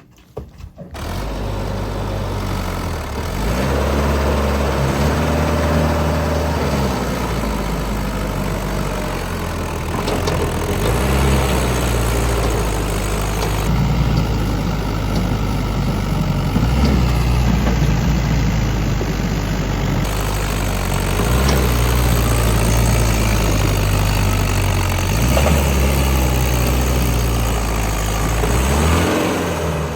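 Diesel tractor engines running under heavy pulling load, their engine speed rising and falling several times. The sound starts suddenly about a second in.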